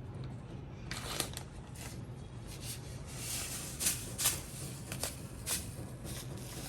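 Irregular rustling and light clicks of food being handled in preparation, starting about a second in, over a steady low hum.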